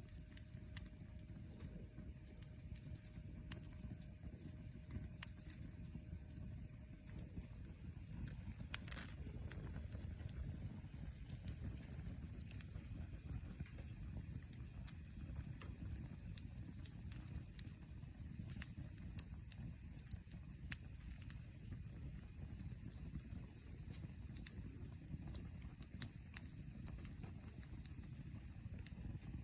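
A steady high-pitched insect trill held throughout, with scattered sharp clicks and a low background rumble.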